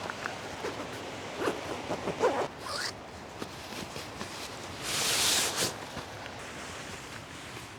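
A zipper being pulled open in a few short jerky strokes, then one longer, louder pull about five seconds in.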